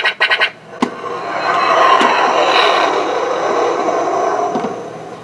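Electronic sound effects from a 1995 Kenner Power of the Force X-Wing toy's speaker. A rapid pulsing electronic tone cuts off about half a second in. Then a noisy starfighter engine sound swells up, holds for a couple of seconds and fades away, with a few light plastic clicks.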